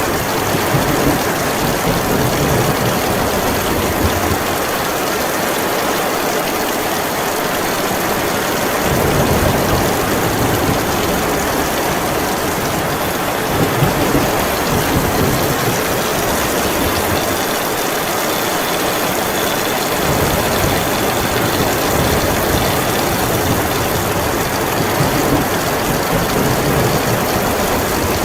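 Heavy rain falling steadily, with low rumbling swells that come and go.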